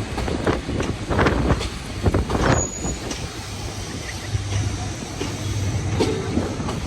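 Passenger train pulling into a station: a run of wheel knocks over the rail joints, a brief high squeal about halfway, then a low steady engine hum as the train rolls on more quietly.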